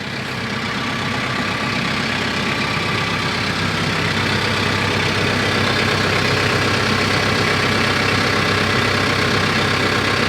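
Tractor engine running steadily. It grows louder over the first few seconds, then holds an even pitch.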